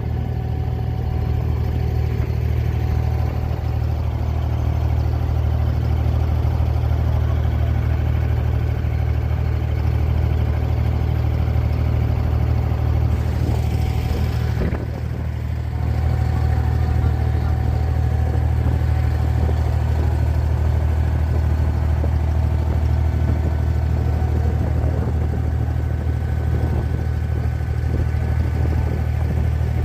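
The engine of a Dubai Creek abra (a small wooden water taxi) running at a steady low drone, heard from on board. About halfway through there is a short hiss, then the drone carries on unchanged.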